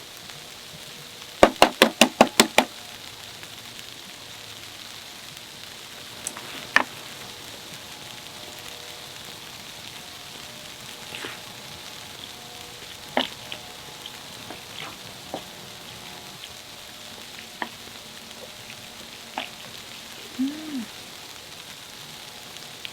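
Steady sizzling hiss, like food frying in a pan, with a quick run of about seven sharp clicks about a second and a half in, then scattered single clicks and knocks.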